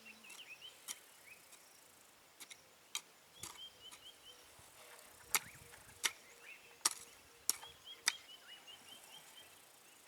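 Sharp knocks coming at irregular intervals, several in quick succession around the middle. A small bird chirps throughout in quick runs of short notes.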